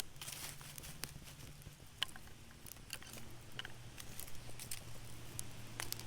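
Small campfire of pine needles and twigs crackling, with scattered sharp snaps and pops.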